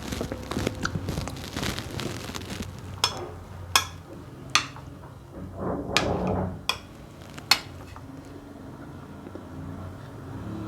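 Close-up eating sounds: chewing and mouth noises, with five sharp clinks of a utensil against a dish through the middle of the stretch.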